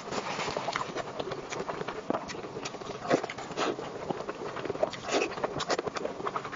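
Close-miked eating: wet chewing and lip smacking, with frequent short, irregular clicks and smacks.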